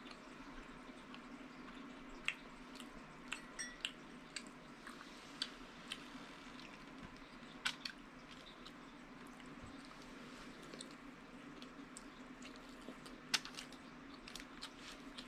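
Close-up eating sounds: chewing with scattered sharp wet mouth clicks, while fingers pick pasta from a foil-covered tray. A steady low hum runs underneath.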